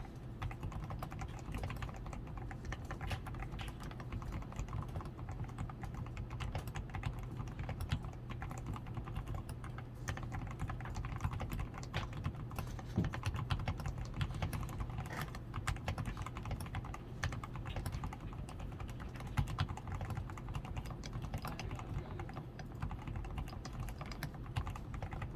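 Continuous typing on a DAREU A87 Pro mechanical keyboard, its switches fully lubed with Krytox 105, its PCB tape-modded and foamed, with XDA keycaps and lubed stabilizers: a steady, dense stream of keystroke clacks.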